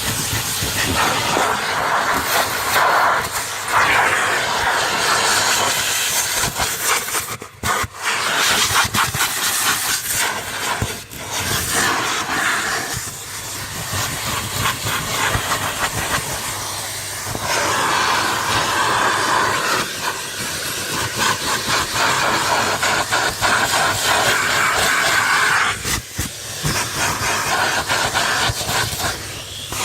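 Numatic Henry cylinder vacuum cleaner running as its nozzle works over a car's floor carpets and pedals: a continuous airy rush whose level and tone keep shifting as the nozzle moves, with a few brief drops where the airflow changes.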